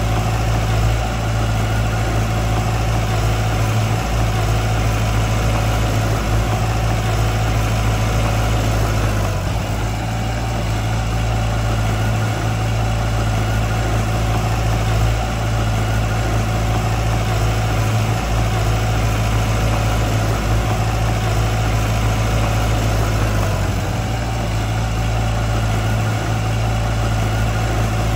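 Diesel engine of heavy construction machinery running steadily, a continuous low drone with only slight dips in level.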